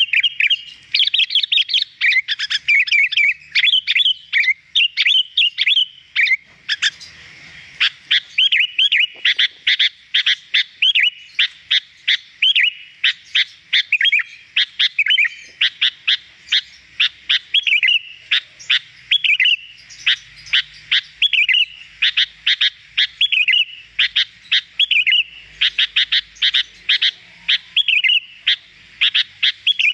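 Sooty-headed bulbul (kutilang) singing without a break: rapid sharp chirps mixed with short warbled phrases, as in a cage-bird song-training recording.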